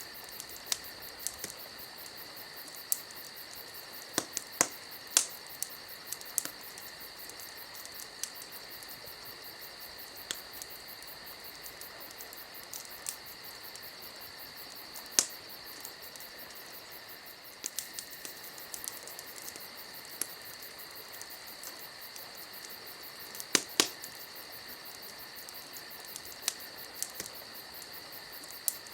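Wood fire crackling: irregular sharp pops and snaps over a steady high hiss, with a loud double pop near the end.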